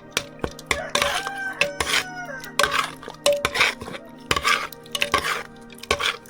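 A rooster crowing, a long gliding call about a second in and further crows after it, over a steady run of sharp knocks at about four a second.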